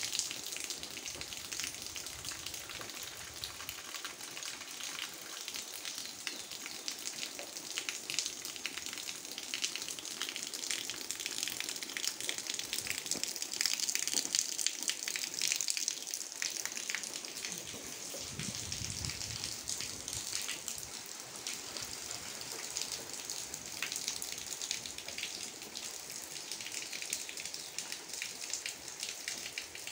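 Steady rain falling, a dense patter of drops, getting a little heavier for a few seconds midway. A brief low rumble comes through near the middle.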